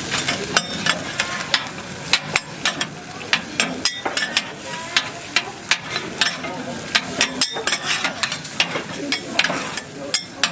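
Metal spatulas clacking and scraping on a hot griddle in quick, irregular strokes over the steady sizzle of frying food.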